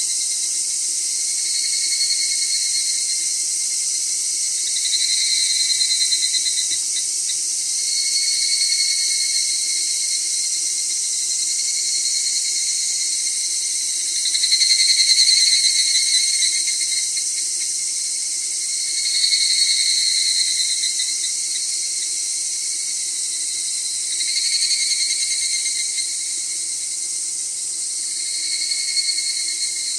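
Chorus of summer insects: a steady high-pitched drone, with a louder pitched call swelling in and fading out about every five seconds, each swell lasting one to two seconds.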